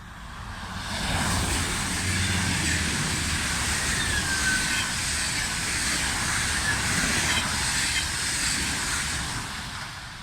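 Train passing at speed close by: the rush of wheels on rail builds within about a second, holds steady for several seconds, then fades as it goes away.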